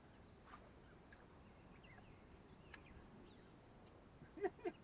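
Near silence with faint, scattered bird chirps. Near the end come two short, louder pitched sounds.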